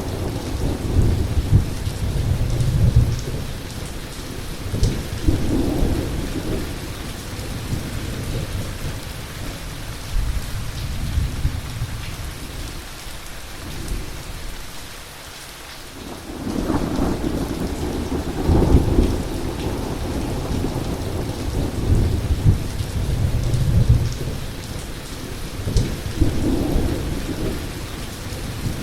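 Heavy rain falling steadily, with rolls of thunder rumbling in low and coming and going in waves; the rumble dies back for a few seconds midway, then swells again loudest a few seconds later.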